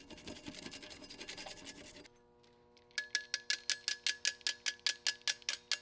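Scratching and scraping on the lantern's metal, cleaning out its vent holes, for about two seconds. It then gives way to a steady hum with a fast, even ticking of about six or seven clicks a second.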